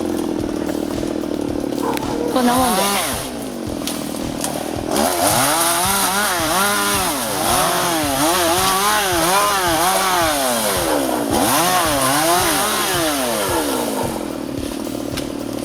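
Two-stroke chainsaw engine revving up and down over and over, its pitch rising and falling about once a second.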